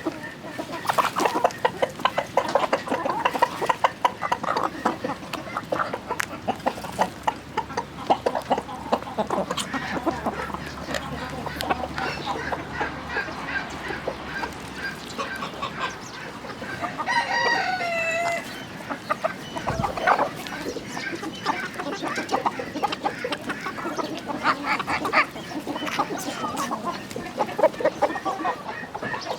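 A flock of chickens clucking busily, with many short overlapping calls. A rooster crows once, about two-thirds of the way through.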